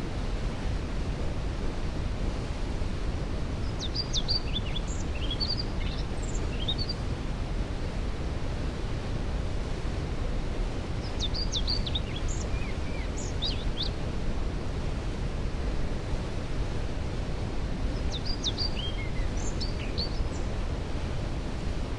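Steady rushing noise of a waterfall, heaviest in the low end, with a songbird singing three short songs of quick high chirping notes, about seven seconds apart.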